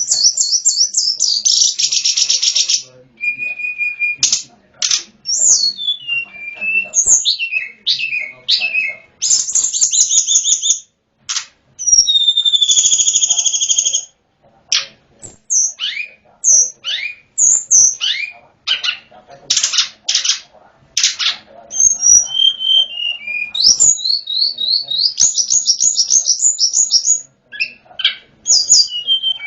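Sulingan gunung (tledekan gunung) songbird singing a long, varied song: high whistled notes, fast trills and quick rising and falling phrases, with short pauses between runs.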